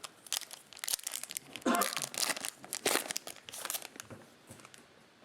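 Foil wrapper of a Topps Chrome trading-card pack being torn open and crinkled, a run of crackling rustles, busiest in the middle.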